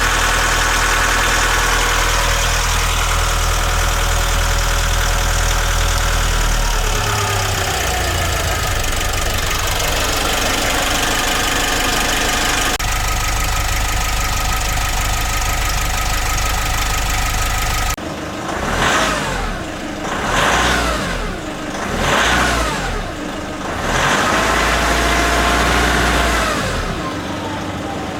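Nissan NV350 Caravan's YD25DDTi 2.5-litre four-cylinder turbodiesel running steadily. About two-thirds in, it is revved four times, pitch rising and falling each time, the last rev held longest. It is a 100,000 km engine that the owner reports as running in top condition.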